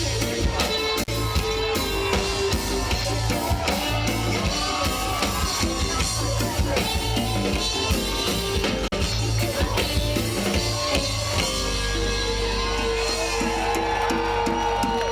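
Live roots reggae band playing the instrumental end of a song, drum kit, bass and guitar. About eleven seconds in the rhythm gives way to a held, ringing final chord.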